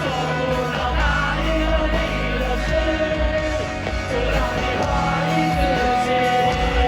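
A rock band playing live, with a held melody line over steady bass and drums.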